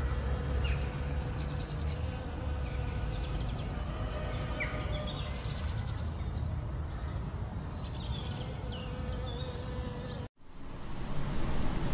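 Honeybee buzzing in a steady hum, with birds chirping in the background. The sound cuts off abruptly about ten seconds in and gives way to a low rushing noise.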